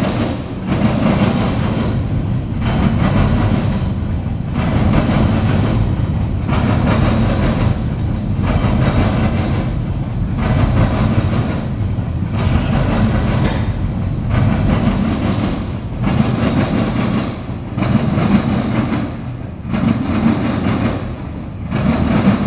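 Freight train of tank cars and covered hopper cars rolling past close by: a steady rumble of steel wheels on rail with a repeating clickety-clack about once a second as the wheel sets cross the rail joints.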